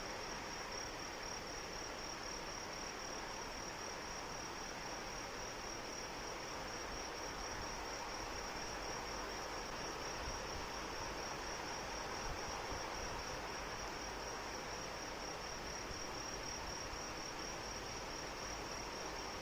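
Steady rain with insects, crickets by the sound, keeping up an unbroken high, rapidly pulsing trill over it.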